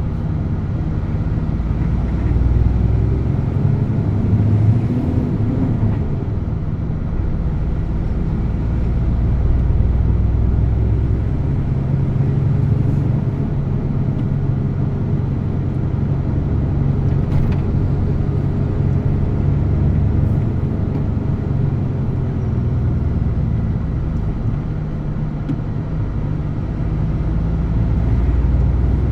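DAF truck's diesel engine running while driving, a steady low drone whose pitch shifts a few times with engine speed.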